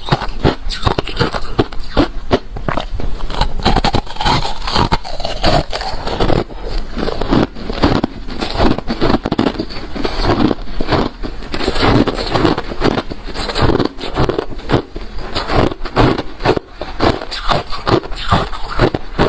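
Close-up crunching of refrozen crushed ice being chewed, a dense run of sharp, uneven cracks and crackles.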